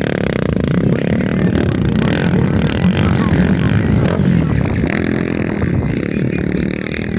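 Motocross motorcycles' engines running at race speed on the track, a loud, continuous engine sound.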